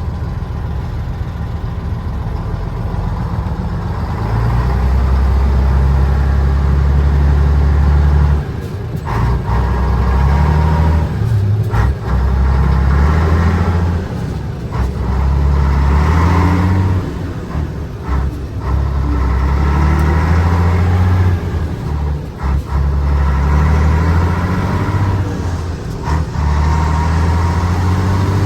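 Mercedes-Benz 1518 truck's diesel engine pulling through the gears: the revs climb, then drop back at each gear change, several times over.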